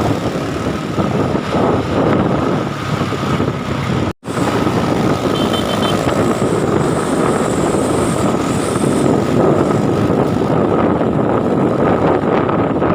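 Truck running on the road with loud, steady engine and road noise, broken by a brief dropout about four seconds in.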